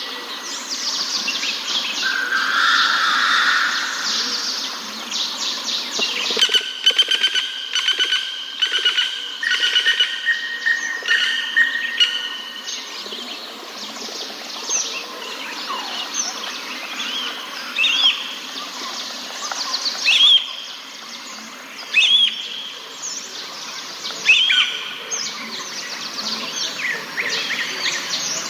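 Several songbirds singing and calling together in a forest: rapid chirping, whistled notes held for a second or so, and in the second half short, sharp calls repeated about every two seconds.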